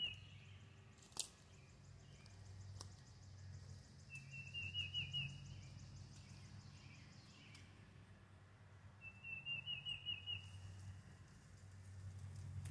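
A songbird singing a short phrase of quick, repeated down-slurred notes, twice about five seconds apart, over a steady low hum. A single sharp click about a second in.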